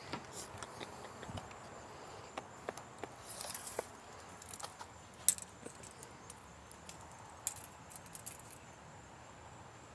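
Scattered faint clicks and metallic rattles of a retractable tape measure being pulled out and handled, with one sharper click about five seconds in.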